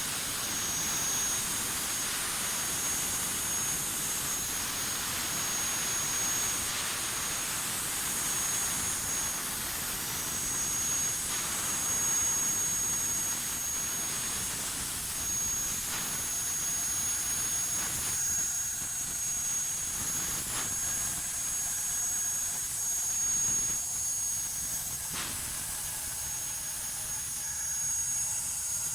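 CNC plasma torch cutting steel plate: a steady hissing rush with a thin, high, steady whine over it.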